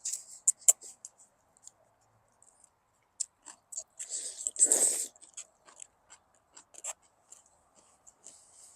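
Close-up eating sounds of jjajangmyeon: chewing, with many short sharp smacks and clicks, and one longer noisy sound about four seconds in.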